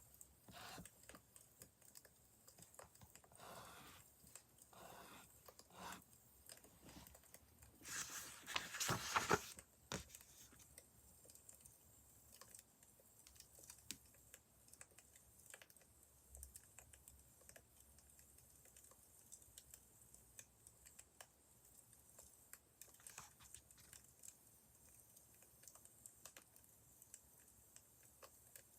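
Wood fire crackling faintly, with scattered small pops and snaps. About eight seconds in there is a louder rustle lasting about a second and a half.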